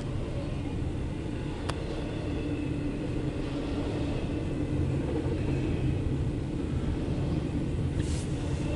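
Freight train of intermodal and autorack cars rolling past, a steady low rumble of wheels on rail that builds slightly, with a sharp click about two seconds in.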